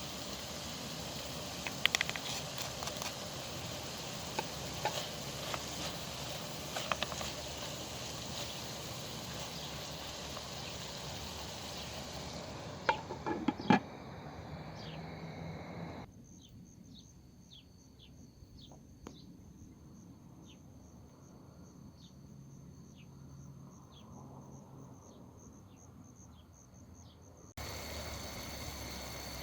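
Outdoor ambience in separate cuts: a steady hiss with scattered sharp clicks and a few loud knocks about halfway through, then a quieter stretch where insects chirp in a steady high pulsing trill with short falling chirps.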